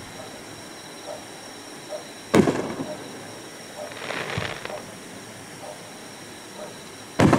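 Aerial firework shells bursting: a loud boom about two and a half seconds in with an echoing tail, a softer crackling stretch around four seconds, and a second loud boom near the end.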